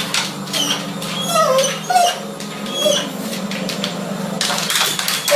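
An animal giving short high squeaks and chirps, some sliding up or down in pitch, over a steady low hum.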